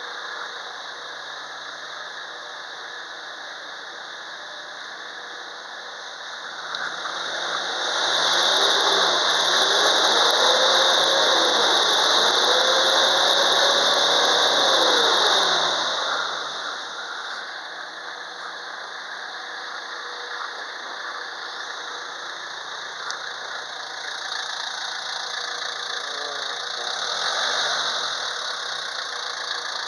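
Mitsubishi 4M40 four-cylinder diesel engine idling, revved up from about seven seconds in, held high for several seconds and let back down to idle, with a short blip near the end. A high whine runs over the engine and grows louder while it is revved.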